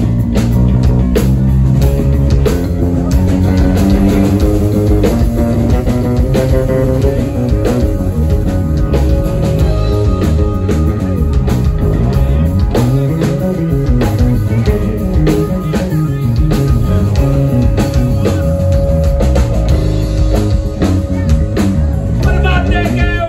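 A live rock band playing an instrumental passage: electric guitar, bass and a drum kit.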